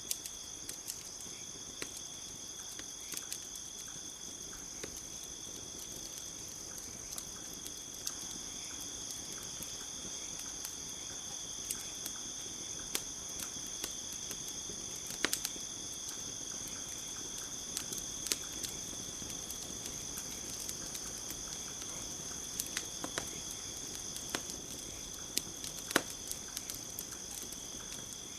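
Campfire crackling, with irregular sharp pops and snaps, the loudest about halfway through and again near the end. Under it runs a steady, high insect chorus.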